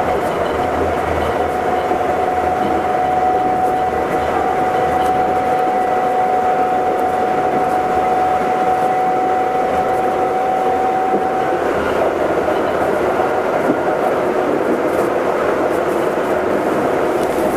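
Astram Line 7000 series rubber-tyred automated guideway train running, heard from inside the car: steady tyre and running noise with an electric whine. The high whine gives way to lower tones about twelve seconds in.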